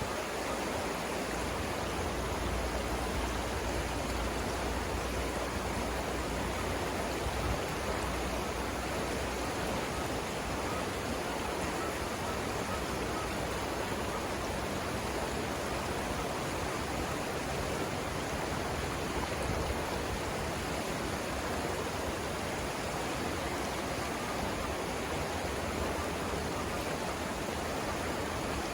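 River rapids rushing, a steady full hiss of flowing water.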